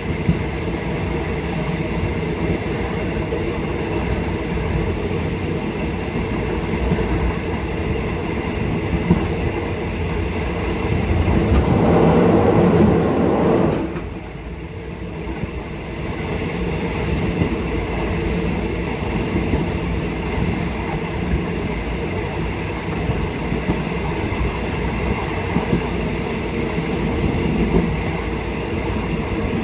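Train running along the track, heard from inside the rear carriage: a steady rumble of wheels on rail. It grows louder for a couple of seconds as the train crosses a short steel girder bridge, then drops suddenly about halfway through as it leaves the bridge.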